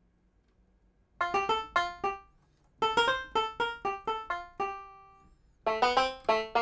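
Sampled banjo voice of the Bismark bs-16i sound module played from a keyboard: about a second in, quick runs of plucked notes begin, each note sharp at the start and fading fast, in three short phrases with brief gaps between them.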